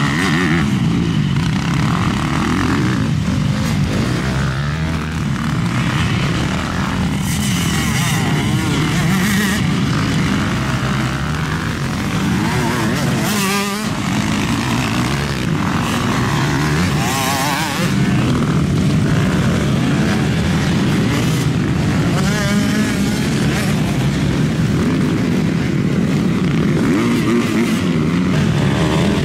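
Off-road racing motorcycles running around a stubble-field track, their engines revving up and falling back again and again without a break.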